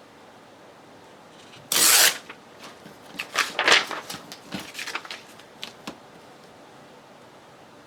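Paper being handled on a craft table: a loud rustle about two seconds in, then a run of shorter rustles and light clicks that dies away around six seconds in.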